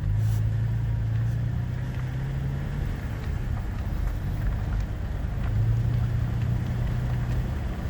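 Motor vehicle running steadily: a low engine drone under a haze of road noise, with a few faint clicks.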